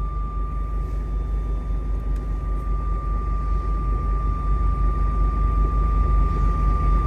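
Semi truck's engine and drivetrain drone heard from inside the cab while driving: a steady low rumble with a thin, steady high whine over it.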